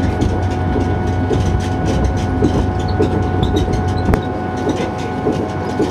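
Train running along the track: a steady low rumble with a steady tone above it. A sharp click about four seconds in, after which the deepest rumble drops away.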